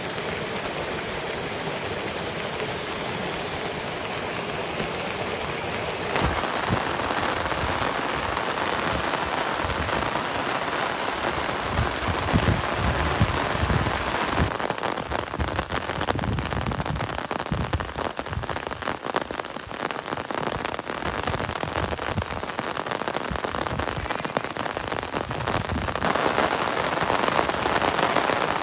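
Heavy rain falling steadily. About six seconds in, the sound changes abruptly to a closer patter of drops striking a surface, with many separate heavy drops.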